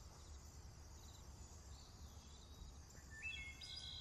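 Faint nature-sounds recording of birds: soft high chirping throughout, and a short call of clear whistled notes stepping up in pitch about three seconds in, over a low hum.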